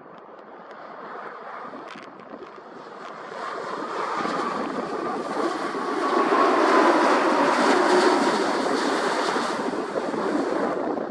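Boeing 787 Dreamliner's jet engines passing close by: a rushing noise that swells to its loudest about two-thirds of the way through, with a whine that drops slightly in pitch, then eases off a little.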